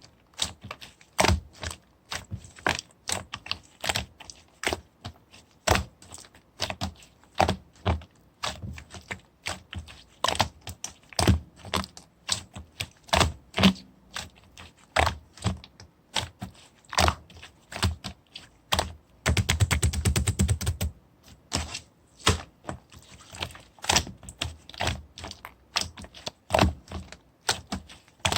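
Slime being worked by hand, giving sharp clicks and pops one or two a second, with a quick run of rapid clicking a little past the middle.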